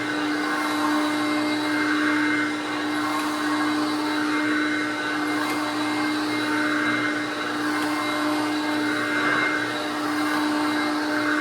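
Hoover Concept upright vacuum cleaner running steadily with a constant motor hum. Its sound swells and eases every two to three seconds.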